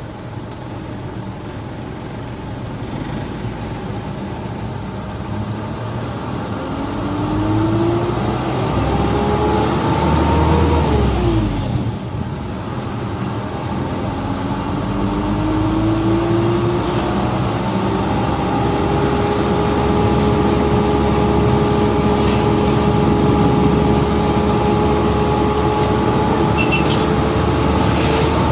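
Dump truck engine and drivetrain accelerating. A whine climbs in pitch for a few seconds, drops off at a gear change near the middle, then rises again and settles into a steady cruising whine.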